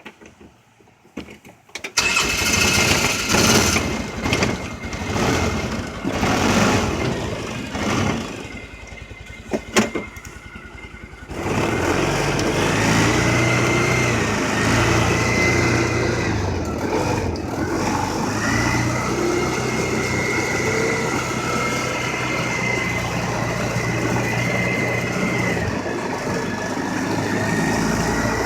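A Polaris vehicle's engine starts about two seconds in and runs unevenly, with sharp knocks, for several seconds. From about twelve seconds on it runs steadily with a held whine, dipping briefly twice.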